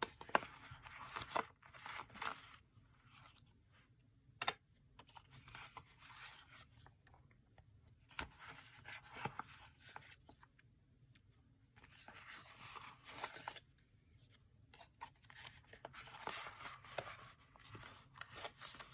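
Paper labels and card being handled and sorted through: soft rustling with scattered light clicks and taps, coming and going in short spells.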